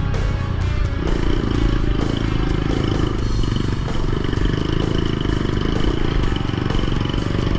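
Dirt bike engine running steadily while riding a rough, muddy trail, with heavy low rumble on the camera mic.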